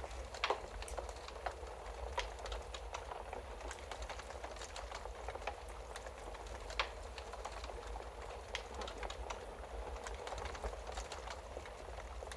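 Wood-burning fireplace crackling: a steady hiss of burning wood with frequent small snaps, and two louder pops, about half a second in and a little past the middle.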